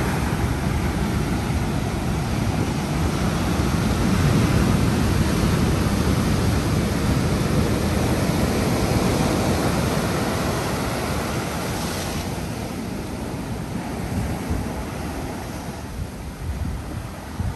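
Ocean surf: a wave breaking and washing in, swelling to its loudest a few seconds in and then slowly fading as the water draws back.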